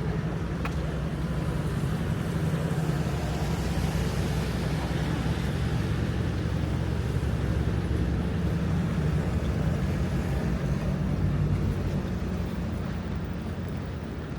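Road traffic: a vehicle's low engine rumble close by over a steady hiss, growing louder a couple of seconds in and easing off near the end.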